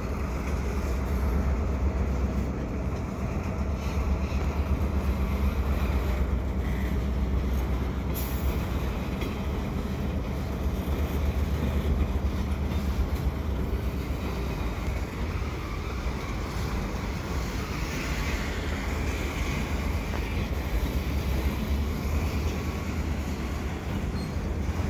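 Freight train of autorack cars rolling past, a steady rumble of steel wheels on rail.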